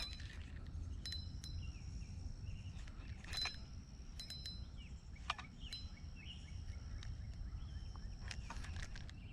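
Outdoor ambience: wind rumbling on the microphone, with high, thin bird or insect chirps coming and going and a few sharp clicks scattered through.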